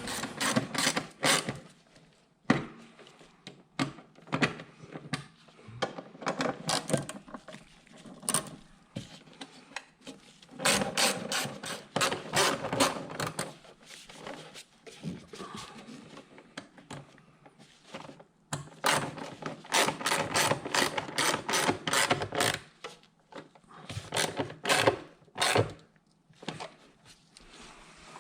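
Hand tool work on hose clamps: runs of rapid sharp clicks with rubbing and scraping between them, coming in several bursts with quieter pauses.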